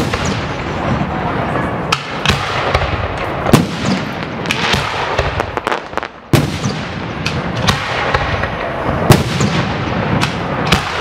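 Aerial firework shells bursting in quick succession: repeated sharp bangs over a continuous crackle and rumble. The loudness dips briefly about halfway, then a loud bang.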